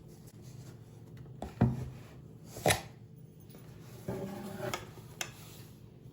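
A few separate sharp knocks and clacks of objects being handled and set down: two louder ones in the first three seconds, then softer clattering near the end.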